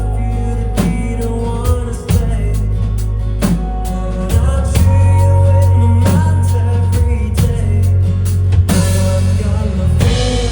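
A band playing with a drum kit keeping a steady beat, a heavy bass line and a sung melody.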